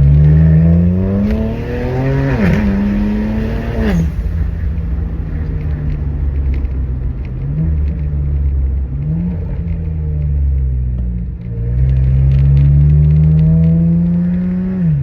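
2007 BMW 335i's twin-turbo N54 straight-six running with the mufflers deleted, catless downpipes and the secondary cats removed, pulling hard twice. The exhaust note climbs, dips sharply about two and a half seconds in, climbs again and cuts off about four seconds in. It then runs steady with a couple of short blips and climbs in another long pull that drops away near the end.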